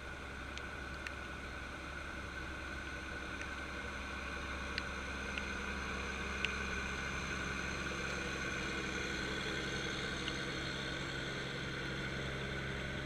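Tractor engine running steadily, heard faintly as an even hum, with a few scattered light ticks. The hum grows slightly louder over the first half.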